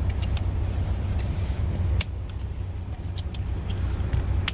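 Sharp plastic clicks and knocks of a car seat being fitted into a car's back seat, with a strong click about two seconds in and another at the end, over a steady low rumble.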